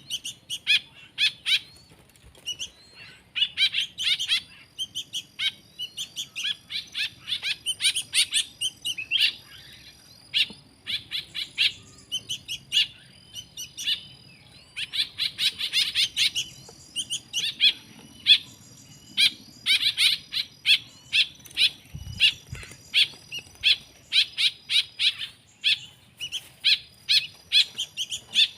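Nestling songbirds begging: rapid, high-pitched chirps in repeated bursts of a second or two, the calls of hungry hand-reared chicks at feeding time. Thin steady high whistles sound alongside from about five seconds in.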